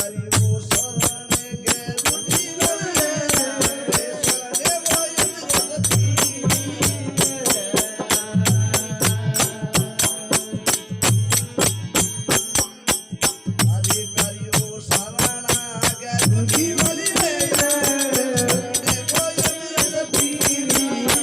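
Marwari desi bhajan folk music: a fast, even jingling rhythm of small cymbals or bells over low drum beats, with a melody line that comes in a couple of seconds in and again near the end.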